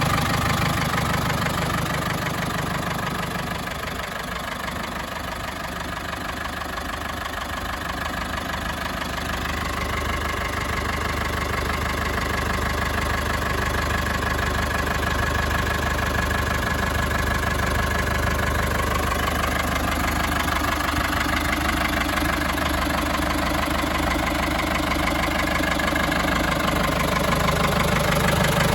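1973 Ford 7000 tractor's four-cylinder diesel engine idling steadily, growing a little quieter a few seconds in and then coming back up.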